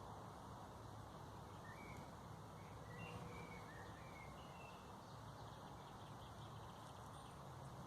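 Faint birdsong: scattered short chirps, several in the first half and a few more near the end, over a steady low background rumble.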